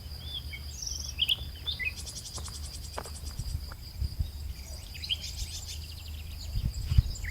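Small birds chirping with short, scattered calls over a steady high-pitched whine and a low rumble of wind.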